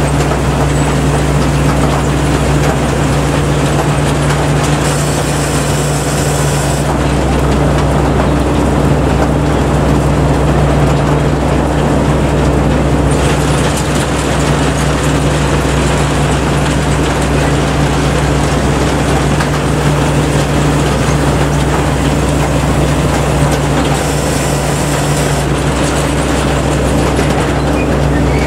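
Rice combine harvester working, its engine and machinery making a steady, loud drone with a constant low hum. Twice a brief spell of added high hiss rises over it.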